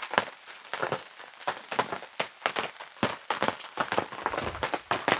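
Rain dripping and tapping, heard as many irregular sharp taps, several a second.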